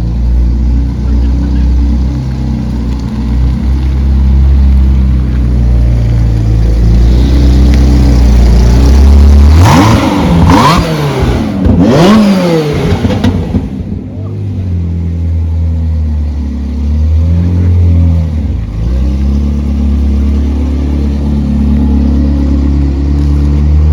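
Zenvo TSR-S V8 engine running at low revs, then revved hard several times about ten to thirteen seconds in, its pitch sweeping up and dropping back with sharp cracks, before settling back to steady low-rev running.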